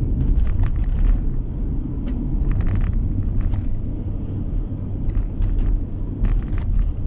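Car interior road noise while driving: a steady low rumble of tyres and engine, with a few scattered faint clicks or rattles.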